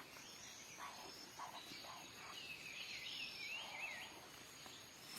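Faint outdoor ambience: a small bird's wavering, twittering call for about a second and a half in the middle, over a steady faint insect drone, with a few soft rustles or knocks in the first two seconds.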